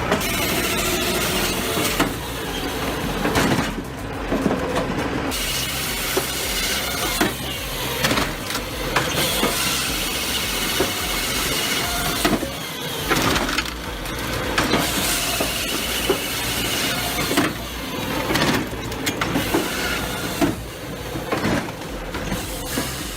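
Wood processor at work: steady engine and hydraulic noise with repeated sharp knocks of logs being handled, cut and split, changing abruptly several times.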